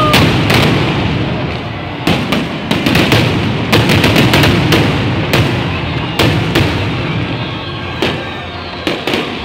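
Fireworks display: a dense run of irregular bangs and crackles from bursting shells, with a short rising whistle right at the start.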